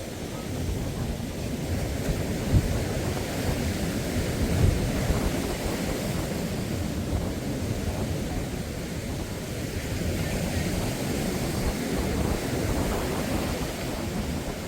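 Wind buffeting the microphone over the steady wash of rough surf breaking on a beach, with two sharper gusts in the first five seconds.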